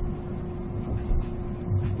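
Running noise inside an E657 series electric train car: a steady low rumble with a constant hum, and two dull low thumps, one about a second in and one near the end.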